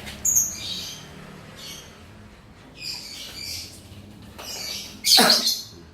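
Cage bird calling in short, high chirping bursts about once a second, with a louder, harsher call about five seconds in.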